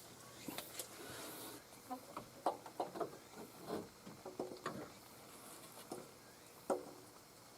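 A run of irregular light clicks and knocks with brief ringing, the loudest a sharp knock near the end, like small tools or parts being handled.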